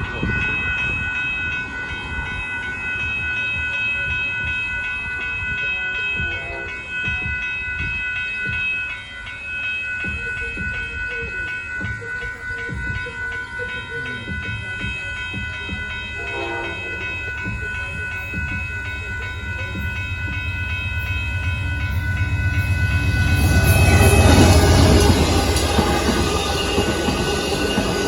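Railroad crossing bell ringing steadily as an Amtrak passenger train approaches, its horn sounding, then the diesel locomotive and cars rumbling past close by, loudest about 24 seconds in.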